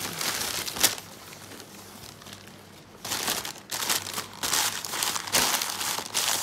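Wrapping material crinkling and rustling as items are wrapped up and packed: a burst near the start, a quieter lull, then a longer stretch of crinkling from about three seconds in.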